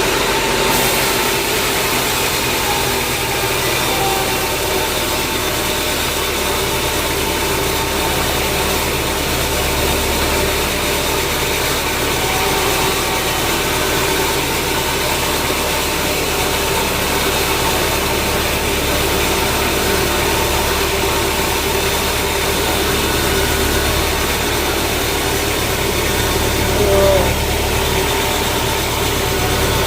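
Sawmill machinery running steadily, a continuous engine-like drone with a hiss over it. There is a brief small swell about three-quarters of the way through.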